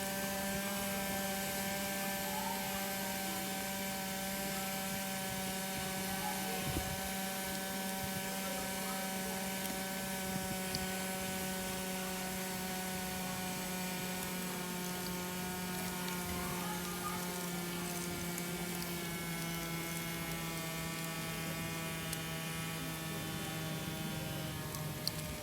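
Small DC motor of a homemade mini conveyor-belt wheat-cleaning machine running with a steady hum, its pitch sinking slightly as it runs, with a few faint ticks.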